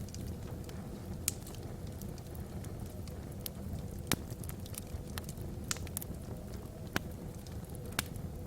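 Wood fire burning logs in a fireplace: a steady low rumble of the flames with irregular sharp crackles and pops, a few louder snaps standing out.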